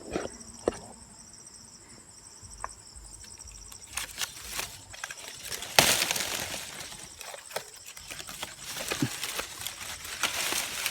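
Insects trilling steadily in the first few seconds, then rustling and scattered clicks, with one sharp crack about six seconds in.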